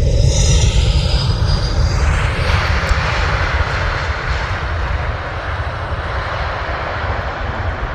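Jet airliner passing low overhead on landing approach. A high engine whine falls in pitch over the first second or two, then gives way to a broad rushing roar with a heavy low rumble that slowly eases.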